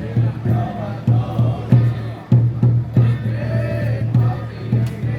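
Xiaofa ritual masters chanting together in wavering voices over a steady drum beat of about three strokes a second, with a louder strike about two seconds in.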